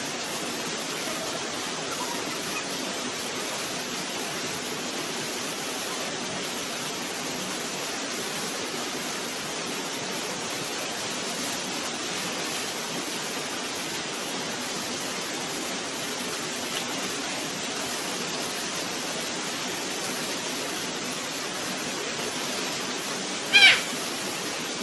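Waterfall rushing steadily. There is one brief loud cry near the end.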